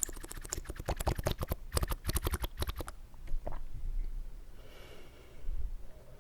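Close-up wet mouth sounds made with water: a quick run of wet clicks and slurps for about three seconds, then a few scattered clicks.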